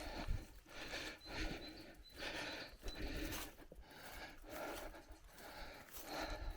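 A cyclist breathing hard and fast while riding, with a breath roughly every second or a little quicker.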